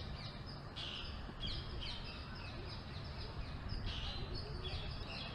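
Small birds chirping over and over, short quick falling calls, over a low steady rumble of background noise.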